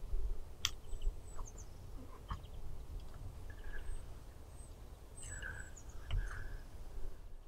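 Spring woodland birdsong: scattered short chirps and a few sharp calls from small birds, over a low steady rumble.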